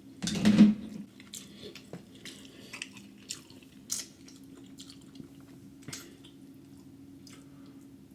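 Close-miked eating of a crab seafood boil: wet chewing, biting and mouth smacks with scattered small clicks. There is one loud, half-second noise just after the start, over a faint steady low hum.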